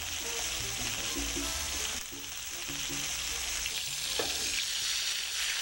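Sofrito sizzling steadily in hot achiote (annatto) oil in a pan, just added, its water starting to cook off.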